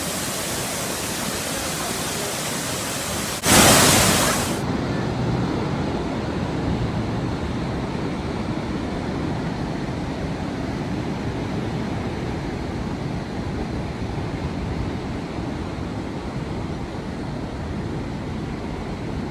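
Steady rushing water noise. About three and a half seconds in, a loud burst of noise lasts about a second, and then the rushing carries on duller and lower.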